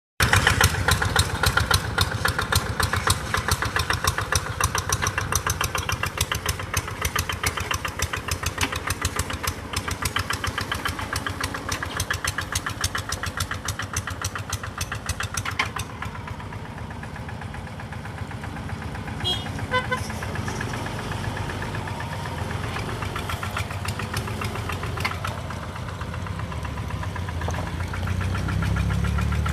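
Engine running with a rapid, even knocking beat, loudest in the first half and quieter from about halfway through.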